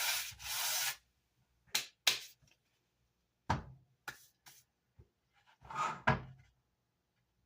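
Sandpaper rubbed on the wooden amp baffle in two quick strokes, then several sharp knocks and clicks of the wood being handled, and another short scrape about six seconds in.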